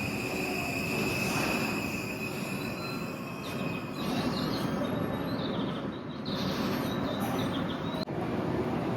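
Train running on rails at a station: a steady rumble of wheels on track with a high steady tone over it, giving way about halfway through to wheel squeal. The sound drops out briefly near the end.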